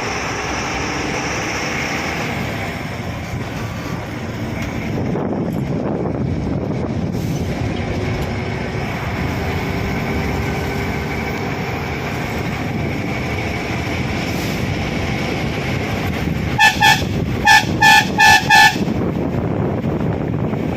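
Steady engine and road noise inside a moving bus, then near the end a quick run of about six short toots on the bus's horn.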